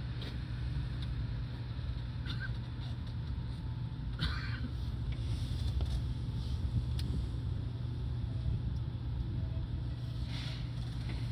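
Seibu 2000 series electric train running: a steady low rumble with scattered faint clicks, and two brief high squeaks, one about four seconds in and one near the end.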